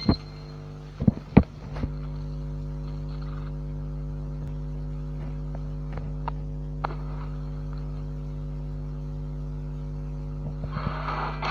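A small electric appliance humming steadily, with a few sharp clicks and knocks in the first two seconds. Music comes in near the end.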